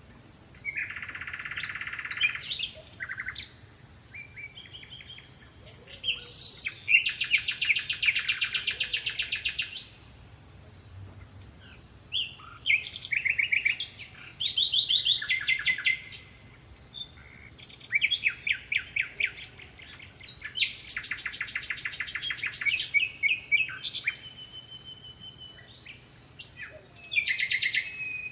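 Songbirds singing: a run of rapid trills, fast repeated chirping notes and short calls, each phrase lasting one to three seconds with short gaps between. A faint steady high-pitched tone sounds underneath throughout.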